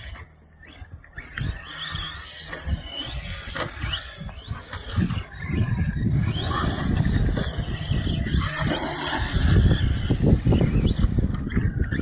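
Brushless electric motor of a 1/10 RC stadium truck, whining up and down in pitch as it speeds up and slows, with tyre and dirt noise. A heavy low rumble comes in from about halfway through.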